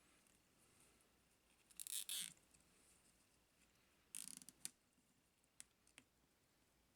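Faint workbench handling sounds during drone frame repair: a short scraping rustle about two seconds in, another with a few clicks about four seconds in, then a couple of light clicks.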